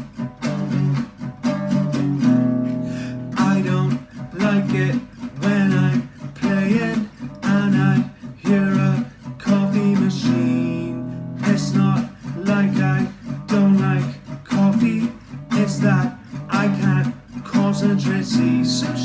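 Acoustic guitar strummed in a steady, repeating rhythm.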